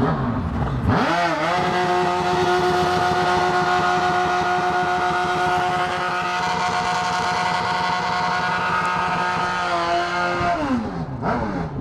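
Drag-racing motorcycle engine revved up sharply, held at one steady high rev for about nine seconds, then let back down near the end.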